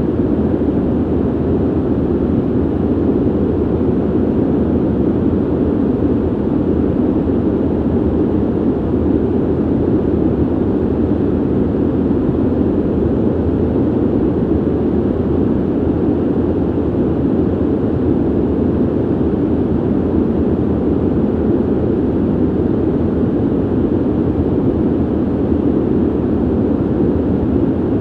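Ventilation noise: a steady, deep, even rush of air that never changes.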